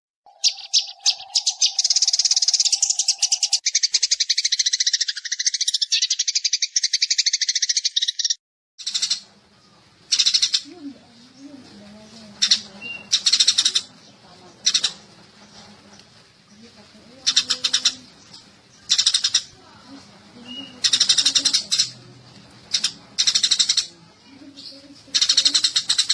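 Sparrows chirping, a lure recording for trapping. A dense run of rapid chirps lasts about eight seconds and stops abruptly. After a short break come separate bursts of chirps every second or two over a faint low hum.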